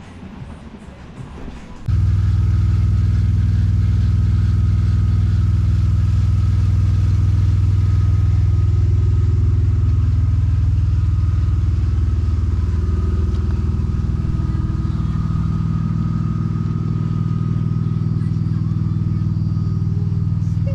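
A vehicle engine running steadily, its low hum starting abruptly about two seconds in as a cut.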